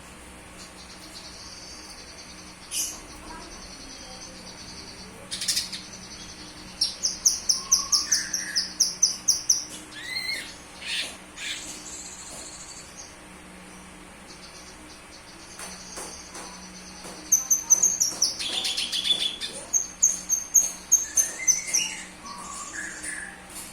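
Cucak kinoy songbird singing: quick runs of high, sharp chirps, with a few lower whistled notes between. The song comes in two main bursts, one about seven seconds in and a longer one from about sixteen seconds, with single calls scattered around them.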